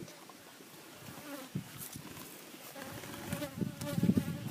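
Honeybees buzzing around the hive, the buzz wavering in pitch and growing louder near the end as bees pass close.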